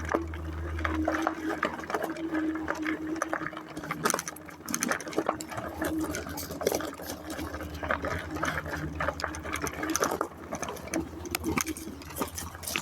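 Bicycle in motion: rapid rattling and clicking from the bike, over a steady low wind rumble on the microphone.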